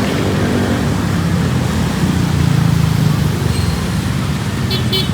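Motor vehicle engine running close by on the street, a steady low drone that swells about two to three seconds in, with a few short high clicks near the end.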